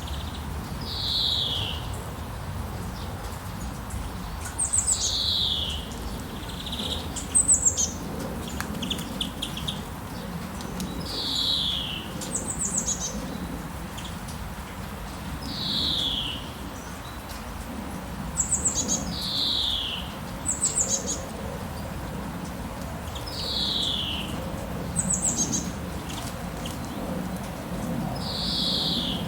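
Birds singing: short whistled notes that slide downward, repeated every few seconds, with quick high chirp series in between, over a steady hiss of rain.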